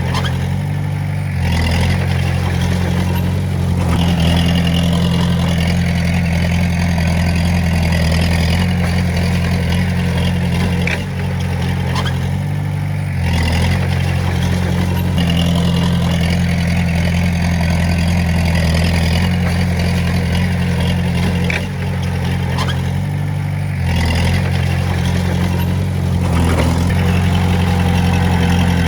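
Diesel engine of a Komatsu D20A bulldozer running steadily under work, its pitch and level shifting up and down every few seconds as the throttle and load change.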